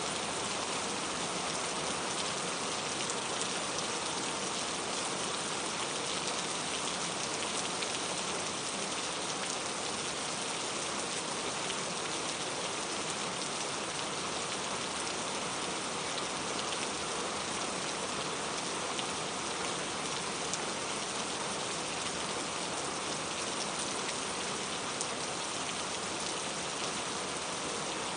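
Steady rain falling, an even hiss of many drops with fine patters of individual drops on a surface.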